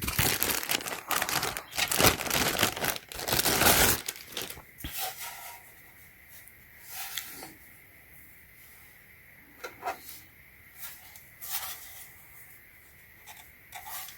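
Packaging crinkling and tearing as a bench power supply is unwrapped, loud for about four seconds, then dropping to scattered light rustles and knocks as the unit is handled.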